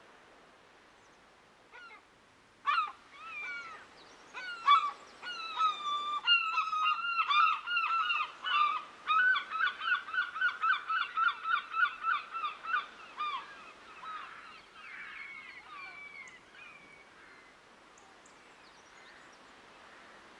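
Waterbirds calling loudly in a long series of pitched, honking calls. The calls speed up to about five a second between about nine and thirteen seconds in, then fade away.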